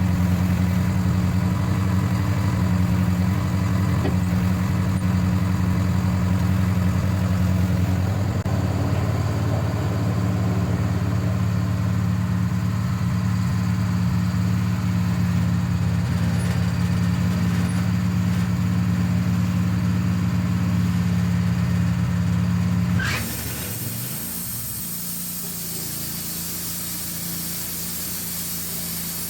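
Portable sawmill's engine running steadily, then dropping away sharply about 23 seconds in after a brief rising squeal, leaving a steady hiss.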